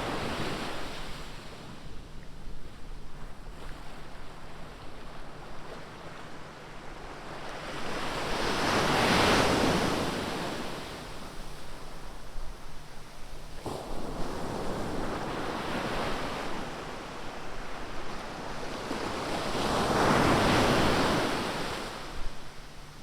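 Ocean surf on a beach: a steady wash of waves, with two larger waves swelling up and breaking, one about nine seconds in and another near the end, each rising and fading over a few seconds.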